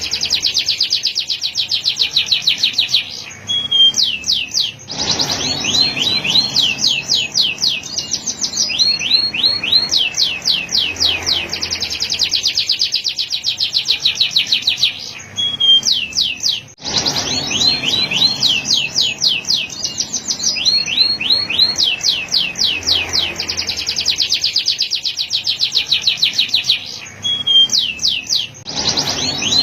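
Male canary singing a continuous song of fast trilled rolls, each phrase a rapid run of repeated high notes, broken by a few brief pauses.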